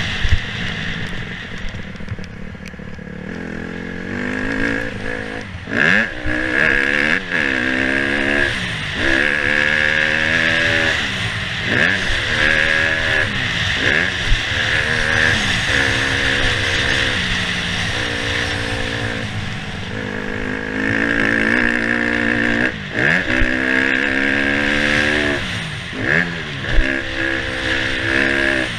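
Dirt bike engine on a motocross track, revving up and falling back again and again as the throttle is worked, with a steady hiss over it and a few sharp knocks.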